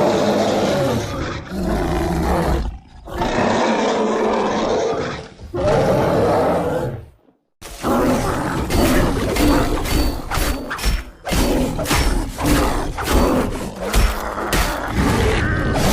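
Cave bear creature sound effect: three long, deep roars one after another, then, after a short break about seven seconds in, a quicker and choppier run of short roars and grunts.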